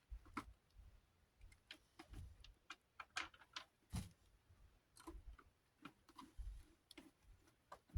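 Faint, irregular clicks and light taps of small desk-fan parts being handled and fitted by hand, with a few soft low thumps.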